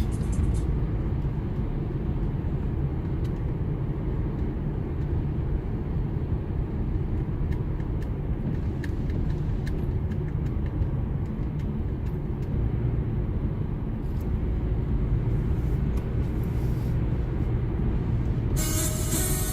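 Steady low rumble of a car driving, heard from inside the cabin: engine and tyre road noise with a few faint ticks. Music starts about a second before the end.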